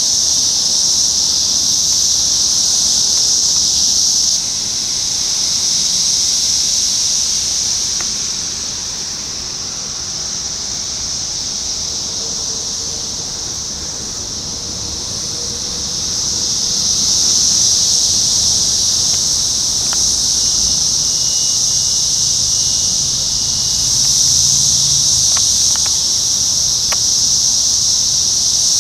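Chorus of Brood X 17-year periodical cicadas, a loud, steady high buzz that swells and fades, easing off for several seconds from about four seconds in and building back up after about seventeen seconds.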